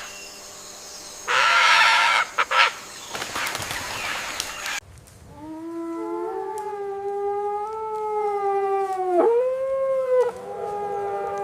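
A canine howling: one long drawn-out howl that rises slowly and is held for about four seconds, bends down and back up, breaks off, and is followed by a second held howl. Before it, near the start, comes a short loud harsh hissing burst with a few clicks.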